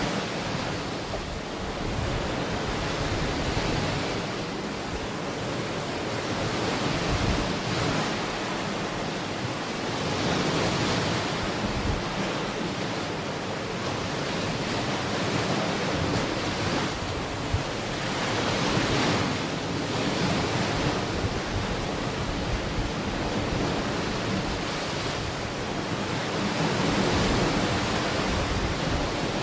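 Ocean waves washing onto a shore, a steady rush of surf that swells and eases every few seconds, with some wind.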